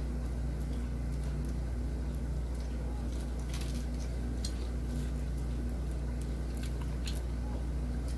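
Soft chewing, biting and lip-smacking sounds of people eating fried chicken by hand, a few short clicks spread through, over a steady low hum.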